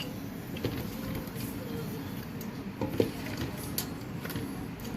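A few light knocks of a spoon against a dish while food is being served, the loudest about three seconds in, over a steady low background rumble.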